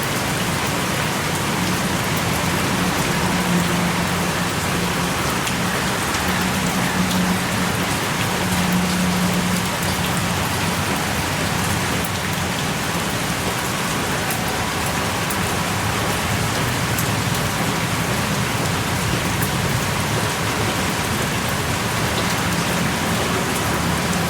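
Heavy rain pouring steadily, with scattered individual drops ticking through the even hiss.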